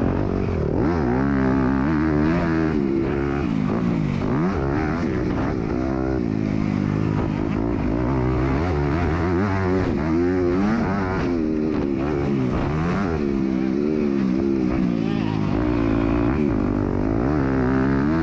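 MX2 motocross bike engine under racing throttle, its pitch rising and falling again and again as the rider opens and closes the throttle and shifts gears.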